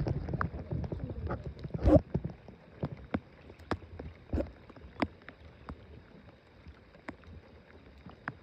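Scattered, irregular taps and drips of rain on a small boat, with a knock and low rumble of movement in the boat in the first two seconds, the taps thinning out after that.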